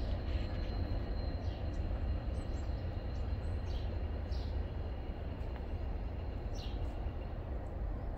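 Low, steady rumble of a passing coal train now out of sight, slowly fading, with a few short bird chirps over it.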